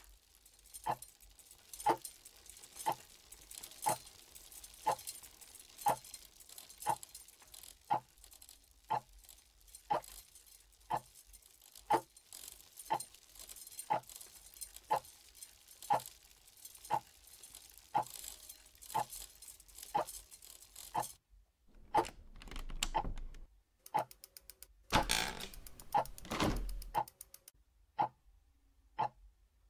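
A clock ticking steadily, about one tick a second, over a faint hiss. Two-thirds of the way through, a louder rattling, jangling noise comes in twice, for a second or two each time.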